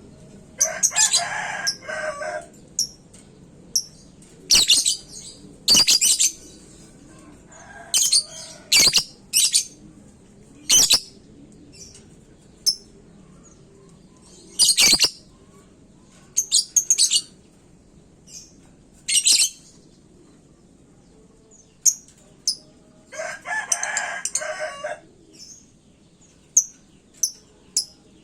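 Lovebirds giving sharp, high chirps and shrieks in short bursts every second or two. Two longer, lower calls come about a second in and near the end.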